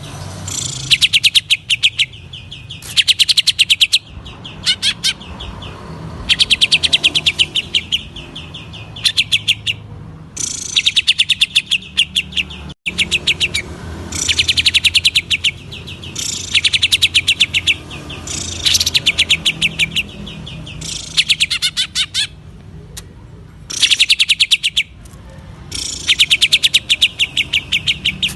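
Cucak ijo (green leafbird) singing in the rapid 'ngentrok' style: repeated bursts of fast, high machine-gun-like trilled notes, each about a second long, with short pauses between.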